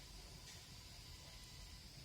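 Near silence: faint night-time outdoor ambience with a steady high insect trill, and one faint click about half a second in.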